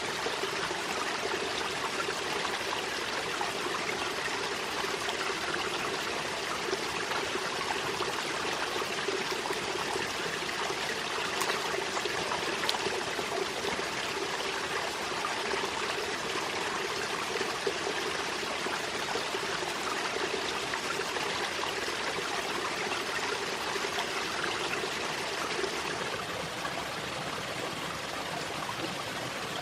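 Water running steadily, like a stream.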